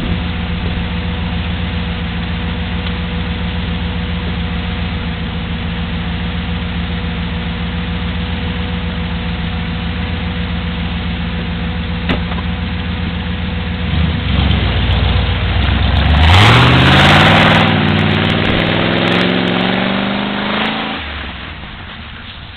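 Car engine idling steadily close by, then revving and accelerating away, its pitch climbing over several seconds before fading into the distance.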